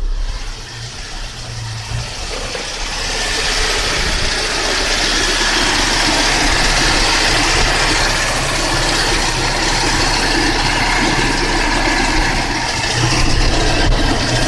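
Toyota Kijang LGX engine idling steadily, with a rushing air noise that swells over the first few seconds and then holds steady as the air conditioning is turned up.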